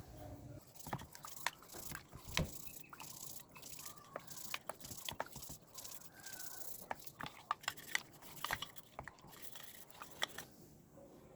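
Scattered clicks, taps and light scraping, irregularly spaced, from small parts and tools being handled and worked by hand.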